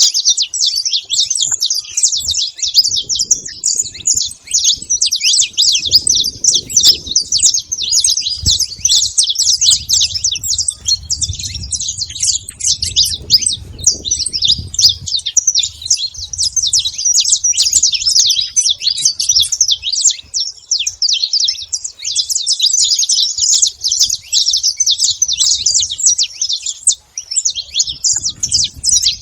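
A flock of saffron finches calling and singing together: a dense, continuous chatter of fast, high chirps with no break.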